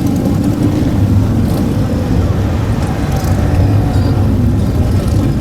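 Motorcycle engine running steadily and loud, a dense low pulsing sound with no change in pace.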